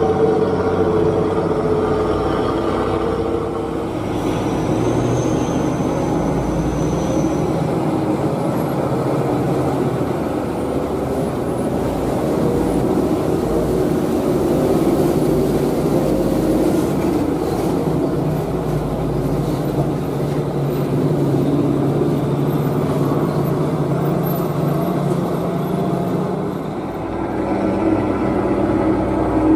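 Old truck's engine running hard under load, its pitch and level rising and falling, as it labours uphill.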